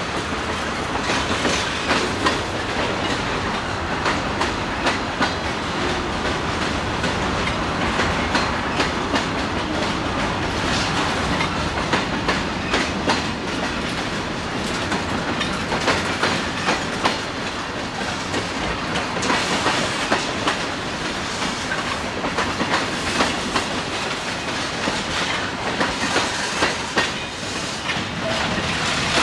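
Freight train cars rolling past: a steady rumble with wheels clicking repeatedly over rail joints.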